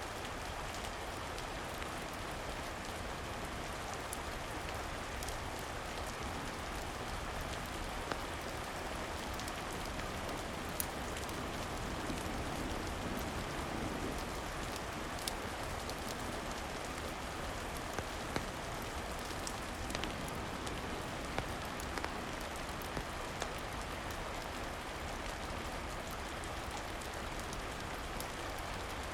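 Steady rain falling, a continuous even hiss, with a fireplace crackling: scattered sharp pops over the rain, mostly in the middle of the stretch.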